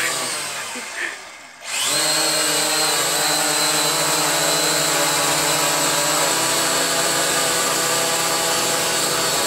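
Syma X8 quadcopter's brushed motors and propellers winding down, then spinning back up with a rising whine about two seconds in and running at a steady whine, blowing air onto a barbecue fire.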